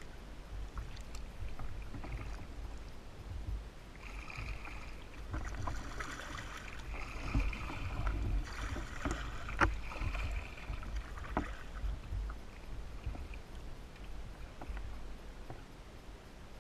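Kayak paddling: the paddle working through the water with splashing and dripping, busiest from about four to twelve seconds in, over a steady low rumble, with a couple of sharp knocks.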